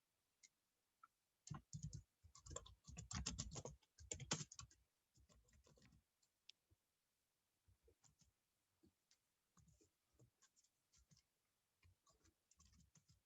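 Computer keyboard typing: a quick run of key clicks for about three seconds, then only the odd faint click.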